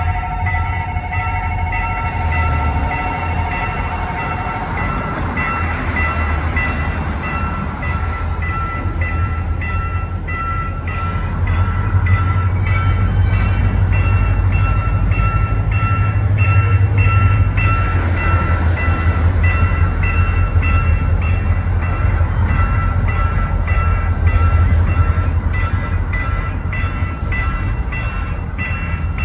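Diesel locomotive hauling passenger coaches across a road level crossing: a two-tone horn sounds for the first few seconds, then the low engine and wheel rumble grows louder about halfway through as the train crosses. The level-crossing warning bell rings rapidly throughout.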